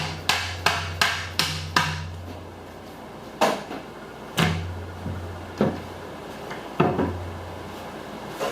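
Tapping on a length of half-inch aluminum channel to bend it into a curved rain gutter: a quick run of about six taps, then four single taps about a second apart.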